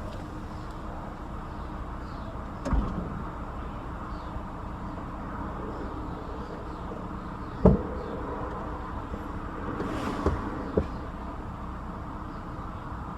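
A few dull thumps and knocks inside a car, four in all with the second the loudest, over a steady low hum.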